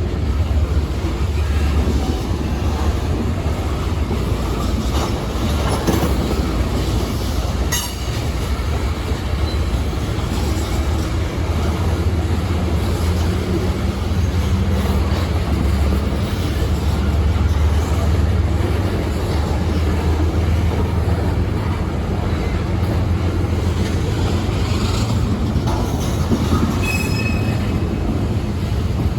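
A train rolling past with a steady low rumble of wheels on rail and occasional clicks. A brief high wheel squeal comes near the end.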